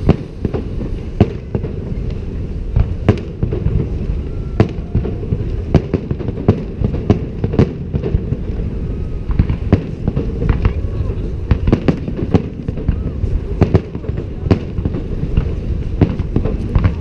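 Fireworks salute: frequent sharp bangs of bursting shells at irregular intervals over a continuous low rumble of further bursts, with crowd voices underneath.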